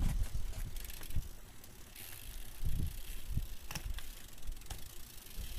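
BMX bike being ridden on concrete during a flatland-style trick: tyres rolling, with a few short dull thumps and a couple of sharp clicks from the bike.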